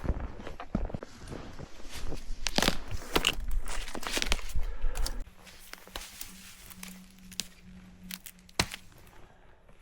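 Dry dead branches being snapped and broken for firewood: a rapid run of cracks and crunches for about five seconds, then quieter, with one more sharp snap near the end.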